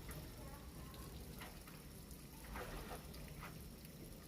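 Water trickling and splashing faintly into the tub of an LG top-load automatic washing machine as it fills, bringing detergent in with it: the fill stage at the start of the wash cycle. A few soft splashes stand out now and then.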